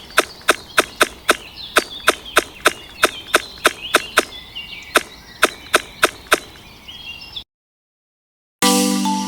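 A fast, even run of sharp knocks, about three a second, with faint chirping behind it. The knocks stop about six and a half seconds in and the sound cuts to silence. Near the end, bright marimba-like music starts.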